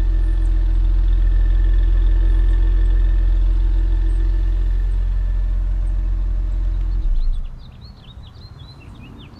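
Ford Taurus SHO's 3.5-litre twin-turbo EcoBoost V6 idling steadily through its dual exhaust just after a remote start; the sound cuts off abruptly about seven seconds in, leaving faint bird chirps.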